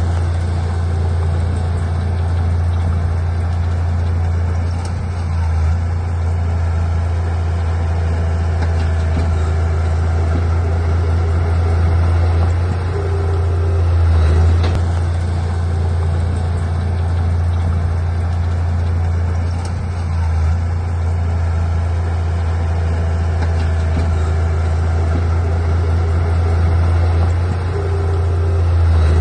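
Diesel engine of heavy earthmoving machinery running steadily in a low drone, swelling briefly a few times as it works harder.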